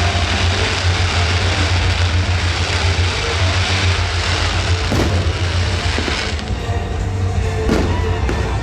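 Fireworks show: a continuous low rumble and dense crackling, with sharp bangs about five seconds in and again near the end. Show music plays faintly underneath.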